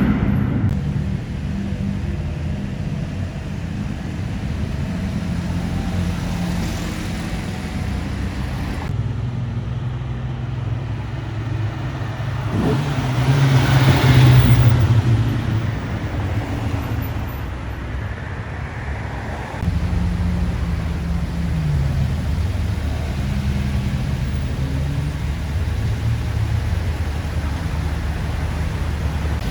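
Car engines running close by, one growing louder and then fading away about halfway through. The engine sound changes abruptly twice.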